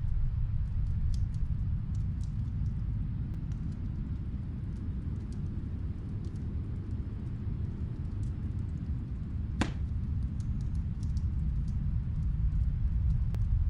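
Snowstorm wind blowing in a steady low rumble that eases and then swells again near the end. Over it come faint, scattered crackles from a wood fire, with one sharper pop about two-thirds of the way through.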